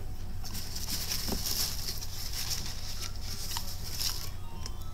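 Crunchy chewing of fried chicken tender breading, a run of small crackles and clicks, over a steady low hum.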